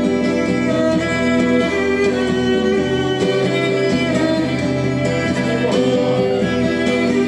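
Acoustic guitar and violin playing an instrumental passage, the violin holding long notes over the strummed guitar.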